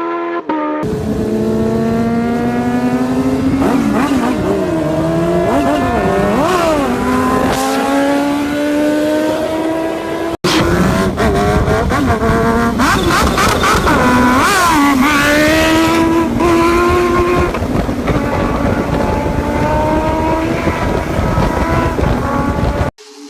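Kawasaki Ninja H2's supercharged inline-four engine running under acceleration, its pitch climbing steadily with short dips and rises of the throttle. The sound cuts off abruptly about ten seconds in, starts again at once, and cuts off again near the end.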